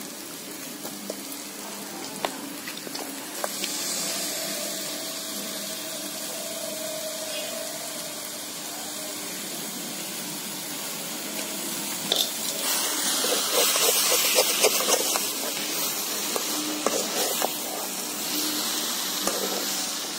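Raw chicken pieces sizzling as they fry in a spiced onion-tomato masala in a kadai. Partway through, the sizzle gets louder, with quick clicking scrapes as a slotted metal spatula stirs the pan.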